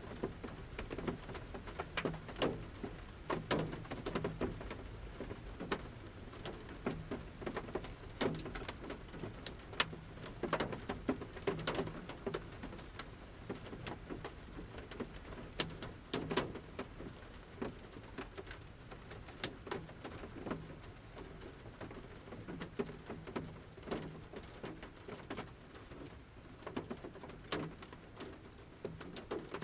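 Large raindrops dripping from a forest canopy onto a camper van's roof, heard from inside the van: sharp taps at irregular intervals over a soft, steady rain hiss.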